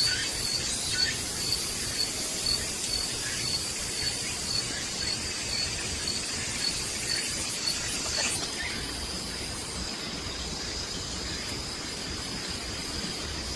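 Insects trilling in a steady high tone, pulsing evenly for the first two thirds and then held unbroken, with a few faint clicks and knocks.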